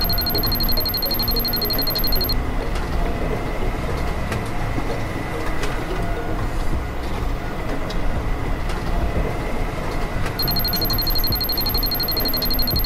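Rapid electronic beeping like a digital timer, for about two seconds at the start and again near the end, over steady background music.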